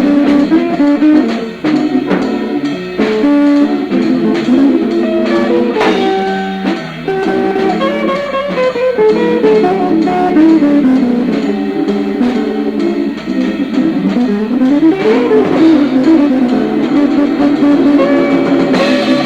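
Jazz combo of organ, guitar, saxophone and drums playing, with the guitar to the fore over drum kit, in a live recording. Runs of notes climb and fall about two-thirds of the way through.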